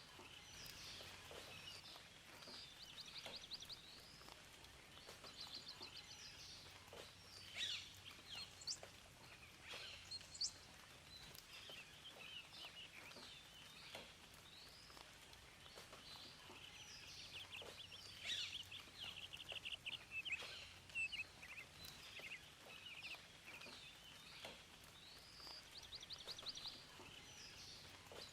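Several songbirds singing and calling, with rapid trills and quick downward-sweeping chirps, over a faint steady background hiss.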